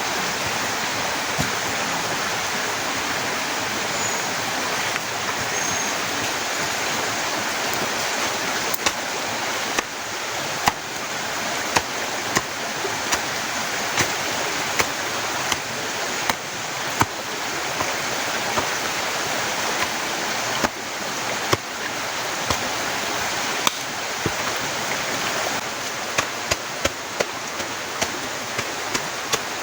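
Heavy rain falling steadily, with short sharp knocks about once a second from about ten seconds in, coming faster near the end.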